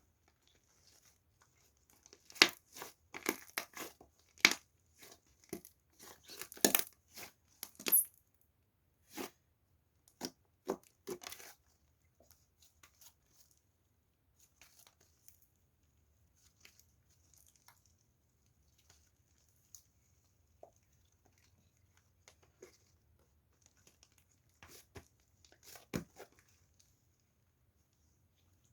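Plastic wrapper of a Boseokbar ice bar crinkling and tearing in irregular crackles, busy at first, then thinning out to occasional rustles with one sharper snap near the end.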